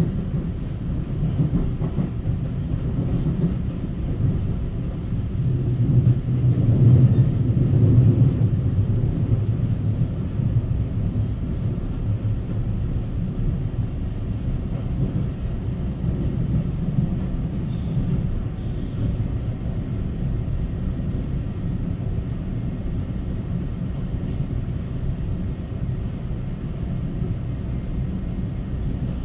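Taiwan Railway EMU900 electric multiple-unit local train running, a steady low rumble of wheels and track that swells for a couple of seconds early on, with a faint thin high whine from about halfway through.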